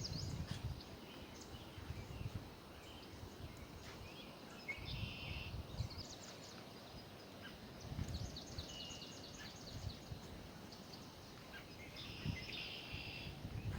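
Small birds singing: a few buzzy trills and a quick run of repeated chirps, heard twice over the marsh, with irregular low thumps and rumble underneath.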